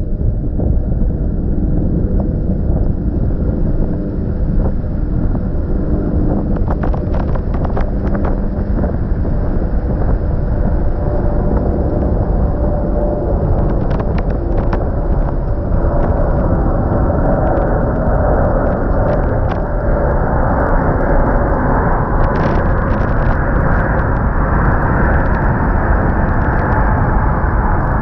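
Jet airliner taking off: a heavy, steady low rumble, with a broader rushing noise building about halfway through and holding as the engines come up to power.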